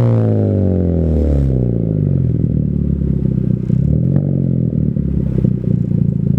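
Hyundai Genesis Coupe 2.0T's turbocharged four-cylinder engine through an ISR GT single-exit catback exhaust: the revs fall away over about two seconds after a blip, then settle into a steady idle with a pulsing exhaust note and a few faint clicks.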